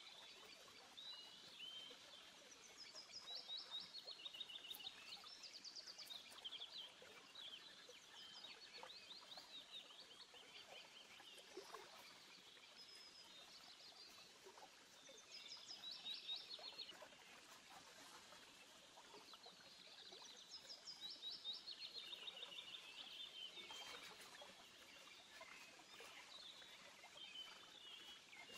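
Small birds chirping faintly, in repeated phrases of quick falling notes every few seconds.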